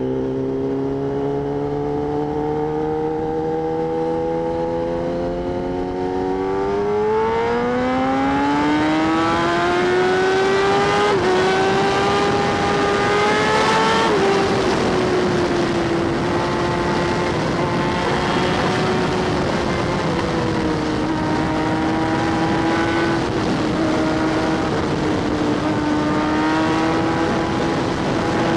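Sport motorcycle engine pulling hard with its pitch climbing, slowly at first and faster from about six seconds in. It drops briefly around eleven seconds in, and again sharply on a shift about fourteen seconds in, then holds a steady cruising speed. Wind rushes over the helmet microphone throughout.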